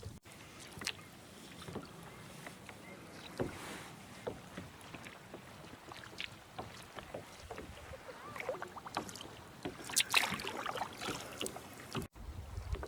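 Kayak paddle strokes in calm lake water, with splashing and dripping from the paddle blades. Around ten seconds in, a denser, louder run of splashes.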